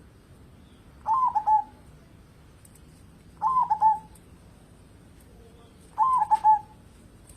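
Zebra dove cooing: three short, rolling coo phrases about two and a half seconds apart, the song used as a lure to set other doves singing.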